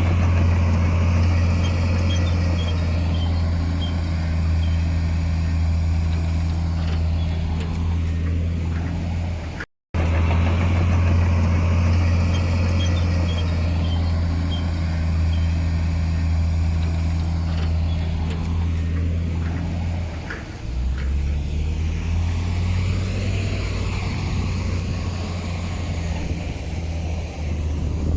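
Heavy diesel engine of earthmoving machinery running steadily at a constant pitch, broken by a brief silent gap just under ten seconds in. About two-thirds of the way through, the engine note drops lower and becomes less even.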